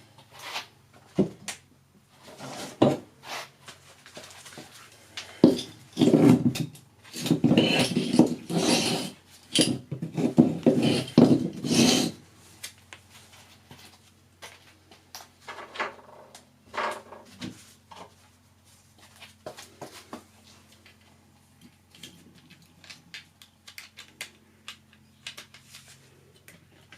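Handling and scraping of metal scrap parts: irregular knocks and clatter, with a dense stretch of rubbing and scraping from about six to twelve seconds in, then only scattered light knocks.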